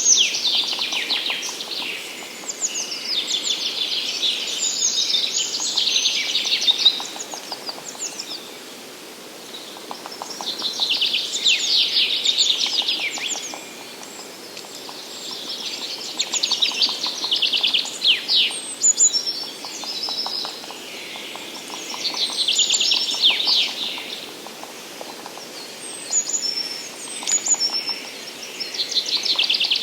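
Songbirds singing: one bird repeats a fast, dense song phrase of quickly falling notes, about two to three seconds long, every few seconds. Thinner, higher notes from another bird come between phrases in the second half.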